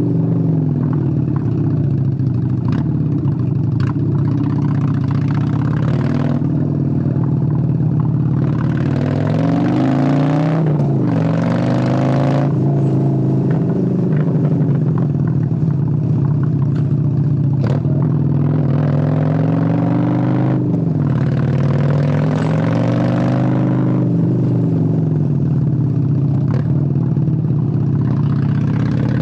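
Honda Steed 600 V-twin motorcycle engine under way, pulling up through the revs and easing off several times so its pitch climbs and falls. Short sharp clicks or cracks come at intervals.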